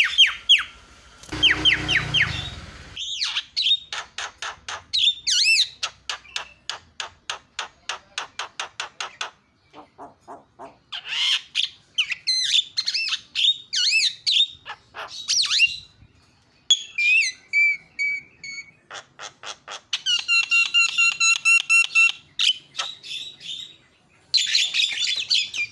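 Javan myna (jalak kebo) singing a loud, varied song of rapid clicking rattles, harsh chattering notes and whistles, with short pauses between phrases. A harsh rasping burst comes about a second in.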